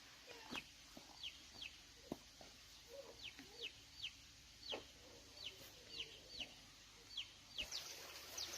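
Chicks peeping: a faint, steady run of short, high, falling peeps, two or three a second, with a few soft knocks among them.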